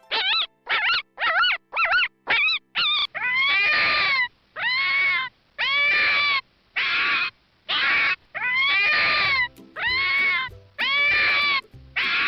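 An animal calling over and over: about two short, sharply arched calls a second for the first three seconds, then longer calls of about a second each, spaced at one per second or so.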